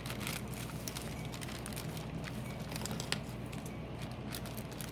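Light handling noises, scattered faint clicks and crackles, over a steady low hum.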